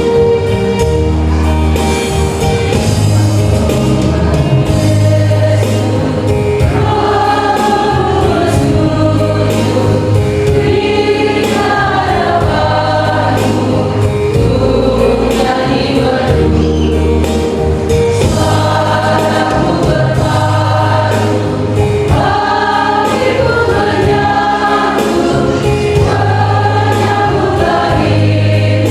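Church choir singing a Christmas hymn in parts over a held, stepwise instrumental bass accompaniment.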